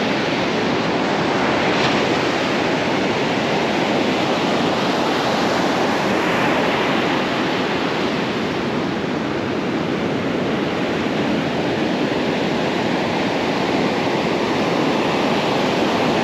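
Ocean surf breaking and washing on a beach: a steady wash of noise that swells and eases slowly.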